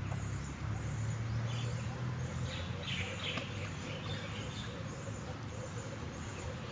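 Outdoor background with birds chirping now and then over a low steady hum.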